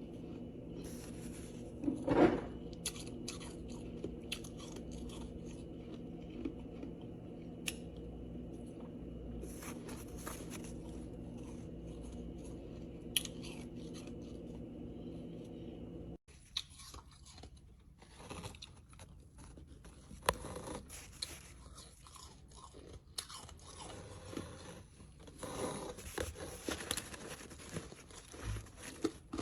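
Ice being bitten and chewed close to the microphone: irregular crisp crunches and cracks. A steady low hum sits under the first half and stops abruptly about halfway through, after which the crunching comes thicker.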